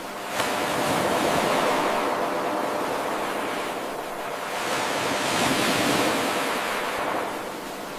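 Ocean surf washing in and out. A wave breaks sharply about half a second in, and the wash then swells and fades twice.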